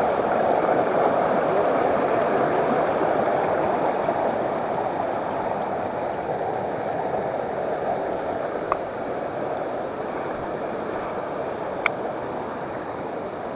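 Waterfall and stream water rushing steadily, a little softer in the second half, with two faint clicks about nine and twelve seconds in.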